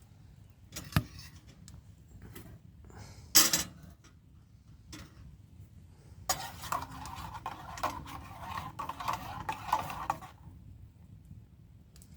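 Metal camping cookware clinking and knocking, with sharp knocks about a second in and again near three and a half seconds. A continuous rushing sound follows for about four seconds past the middle, while a hot drink is being made.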